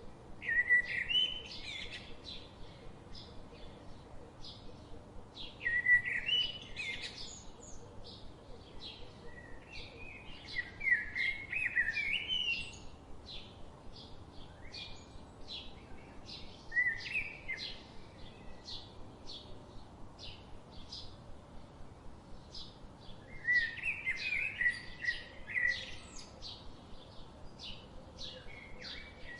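Songbirds singing: one bird gives a loud warbling phrase about every five seconds, over a steady run of short, high repeated chirps several times a second.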